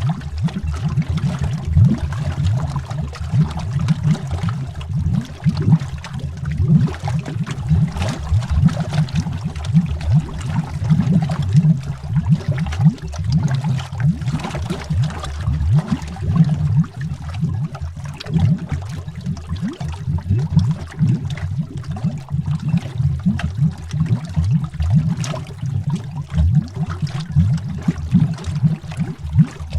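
Water bubbling heard from under the water: a dense, continuous stream of bubbles, low and rapid, irregular and unbroken.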